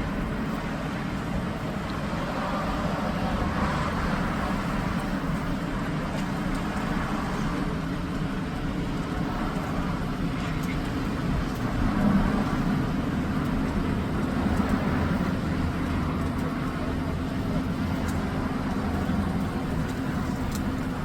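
A car engine running steadily: a low, even hum with no breaks, a little louder about halfway through.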